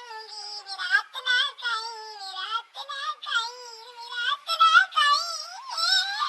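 A very high-pitched, synthetic-sounding voice singing a wavering melody in short phrases, like a sped-up song.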